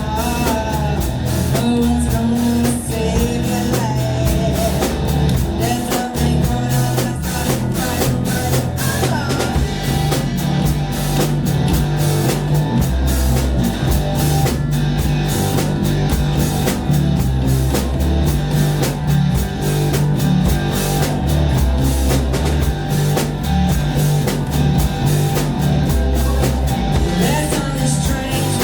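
A live rock band playing loudly: a drum kit beating steadily over bass and guitar, with singing.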